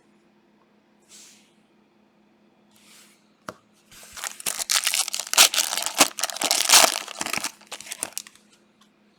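Foil wrapper of a trading card pack being torn open and crinkled: a couple of soft swishes, then dense crackling for about four seconds.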